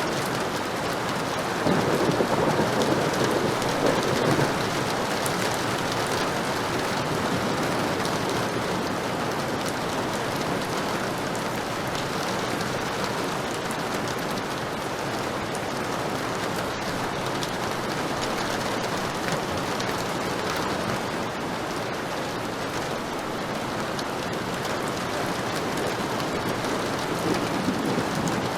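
Heavy rain falling steadily. A rumble of thunder swells up about two seconds in, and another comes near the end.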